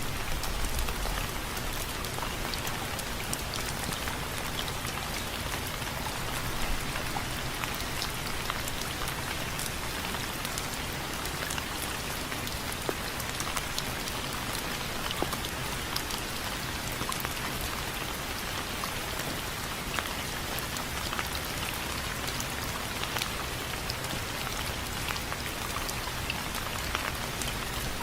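Steady rain falling on window frames, with many separate drop hits sounding as sharp ticks over an even hiss.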